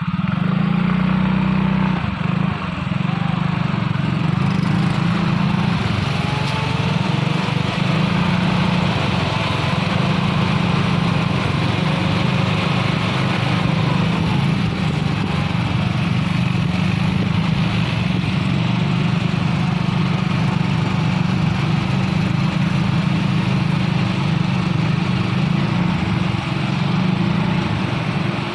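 Engine of an assembled Isuzu truck running hard under load on an uphill climb: a loud, steady low drone with a faint higher note that slowly glides.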